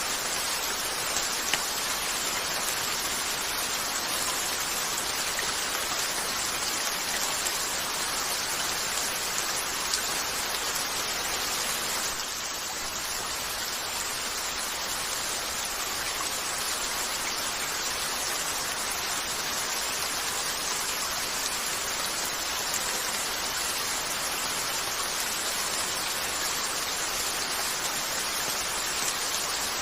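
Steady rain falling on a window, an even dense hiss, easing slightly about twelve seconds in, with a few brief sharp ticks.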